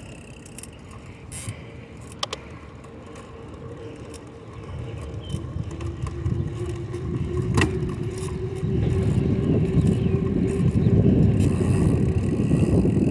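Bicycle being ridden: a few sharp clicks from the bike early on, then low rumbling road and wind noise that grows louder from about halfway through.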